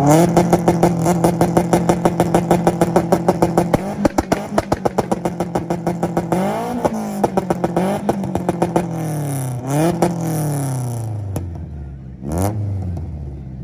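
Tuned import car engines, an Acura Integra among them, held on a two-step limiter: a steady high-rpm note cut by rapid popping, about five pops a second, for roughly the first six seconds. Then come rising and falling free revs, and a last single rev blip near the end before it dies down.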